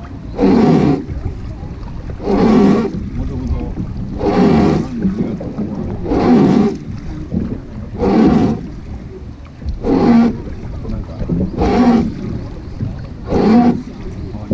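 Rowing of a wooden river boat: a loud, strained, pitched sound comes with each oar stroke, about every two seconds, eight times in a steady rhythm, over a low water rumble.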